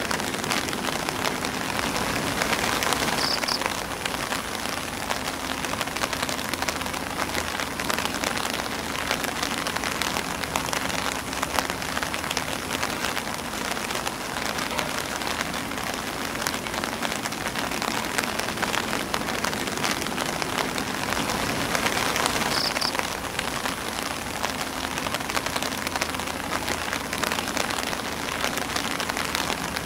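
Rain falling on an umbrella and on grass leaves: a steady, dense patter of drops.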